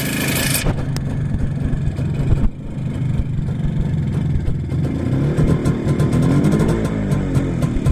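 1971 MZ ES 150/1 Trophy's single-cylinder two-stroke engine running steadily, with a short rise and fall in revs about six to seven seconds in.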